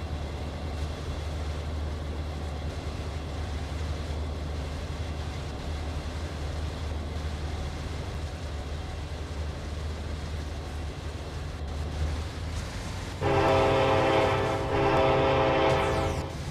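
Diesel freight locomotive running with a steady low rumble, then its air horn sounds two long blasts about thirteen seconds in.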